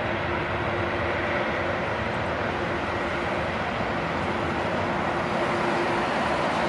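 Jet airliner engines running: a steady rumble with a faint, held hum and whine over it, at an even level.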